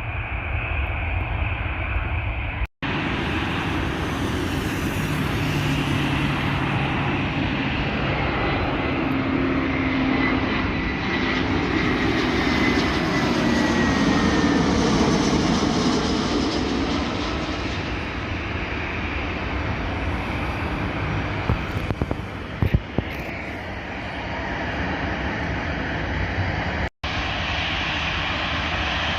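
An airliner's engines passing close by: a dense, loud engine rush that swells and then eases off, with a high whine that slowly falls in pitch as the aircraft goes past.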